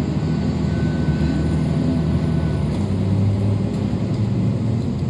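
MAZ-103 city bus under way, heard from inside the passenger cabin: steady engine and road rumble, the engine note swelling for a moment about three seconds in.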